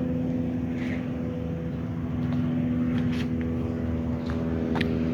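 A steady low mechanical hum, like an engine running at a constant speed, with a few faint clicks.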